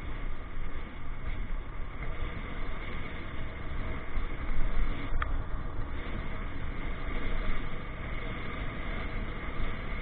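Motorcycle riding noise: a steady, noisy rumble of engine, wind and passing traffic, heaviest in the low end, with one brief high chirp a little after the middle.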